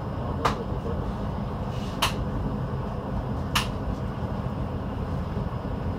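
Steady low running rumble of a PESA 620M diesel railcar under way, with three sharp clicks about a second and a half apart.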